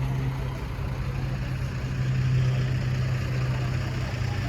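Heavy truck diesel engine idling, a steady low drone.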